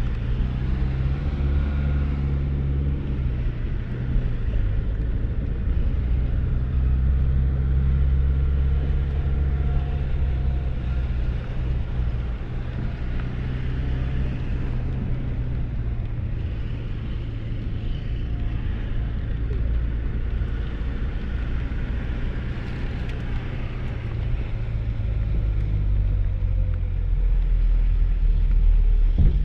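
Steady rain hiss over a low, steady hum from a vehicle engine.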